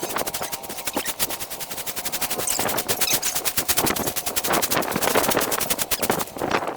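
A fast, steady mechanical rattle of sharp, evenly spaced clicks, about ten a second, easing off about six seconds in.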